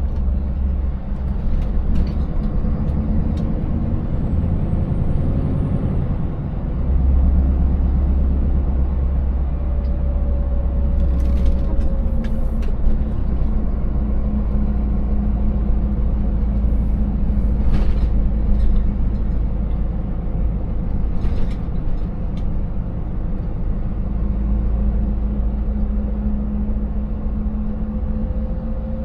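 Scania 590S V8 diesel truck engine running steadily under way, a deep continuous rumble, with a few sharp knocks partway through and later on.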